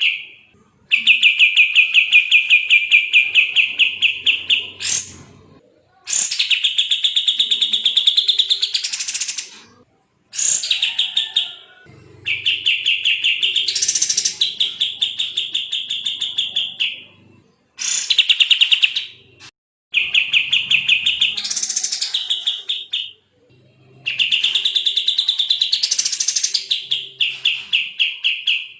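Kapas tembak bulbul singing in rapid, dense bursts of repeated chattering notes, about seven a second. Each burst lasts two to four seconds with short breaks between them, and several rise higher in pitch in the middle.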